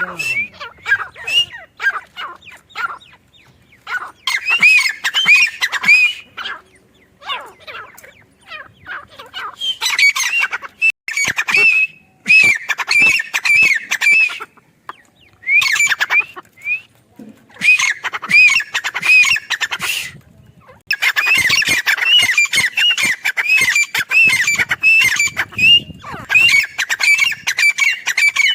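Grey francolin calling: bouts of rapid, repeated shrill notes separated by short pauses. The calling grows denser and runs almost without a break over the last third.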